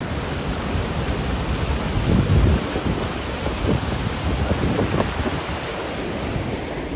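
Torrent of rushing floodwater, a dense steady rush with a deep rumble that swells briefly about two seconds in.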